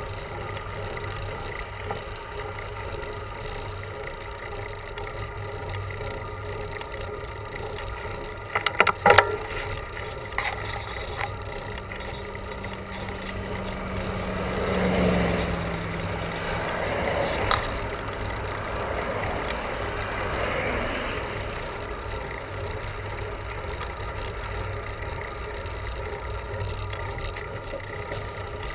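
Steady road and wind noise on a bicycle ride, with a quick run of sharp clicks about nine seconds in. A motor vehicle passes with a low engine tone near the middle, and a softer swell follows a few seconds later.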